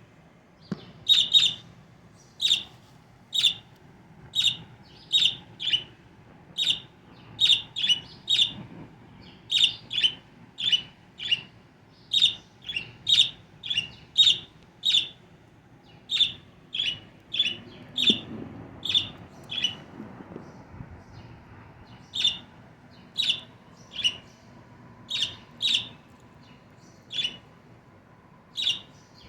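Pet bird giving loud, sharp distance calls over and over, roughly one or two a second and sometimes in quick pairs, calling out to wild birds.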